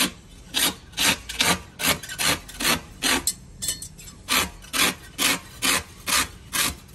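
A hand tool scraped over a truck tyre in quick, even strokes, about two to three a second, as the tyre is worked over by hand.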